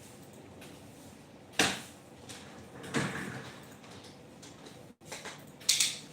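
Three separate knocks or bangs: a sharp one about a second and a half in, a heavier one about three seconds in, and a sharp, bright one near the end.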